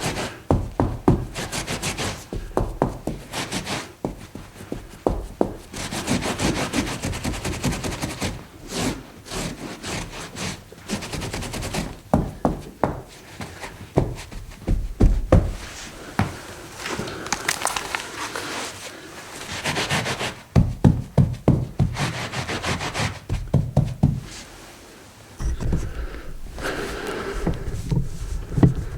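Foley of a spill being cleaned up: irregular rubbing and scraping strokes, mixed with frequent knocks and clunks of objects being handled or set down.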